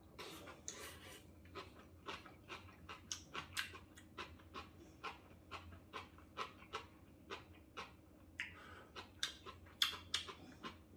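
Someone eating instant ramen noodles close to the microphone: quick, irregular wet mouth clicks and smacks of chewing, broken by a few short slurps.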